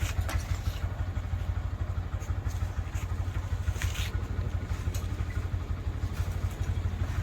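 A motorcycle engine idling steadily, with a few faint metallic clicks from tools.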